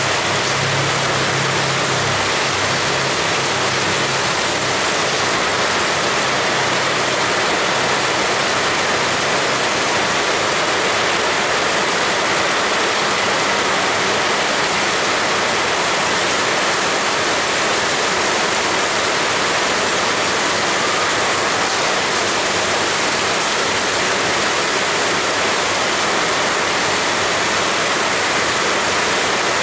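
Heavy rain falling steadily, an even, dense hiss with no letup.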